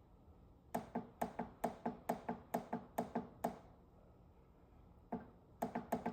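Plastic power button on a Roku TV's panel clicking as it is pressed over and over, about four or five clicks a second. The clicks pause for about a second and a half, then start again near the end. The TV is not responding to the button: it will not turn on until it is unplugged and plugged back in.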